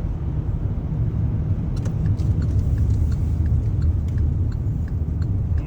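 Steady low rumble of a car driving, engine and tyre noise, with faint light ticks through the middle and later part.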